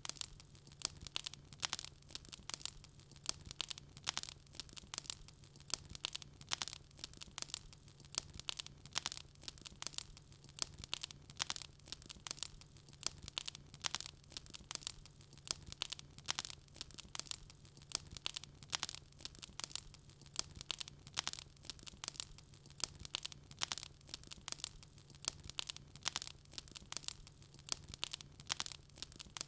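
Wood fire crackling in a fireplace: dense, irregular snaps and pops, several a second, over a faint steady low hum.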